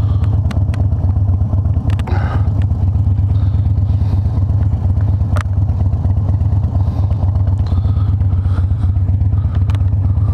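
2006 Harley-Davidson Dyna Low Rider's Twin Cam 88 V-twin running steadily with a deep low rumble, with a few light clicks and taps over it.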